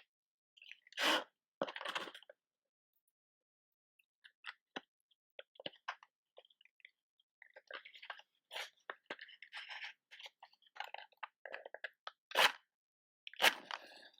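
Matches and a matchbox being handled: two scratchy bursts early on, then a run of small crackles and scratches, and two sharp clicks about a second apart near the end.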